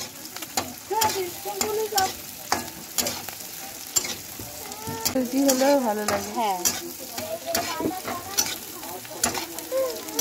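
Sliced onions and green chillies sizzling in hot oil in a kadai, stirred with a spatula that clicks and scrapes against the pan about once or twice a second.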